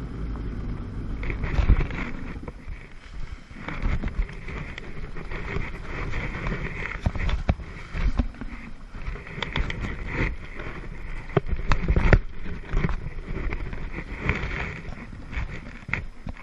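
Water splashing and slapping against a jet ski's hull, with wind buffeting the microphone in uneven thumps; no steady engine note stands out.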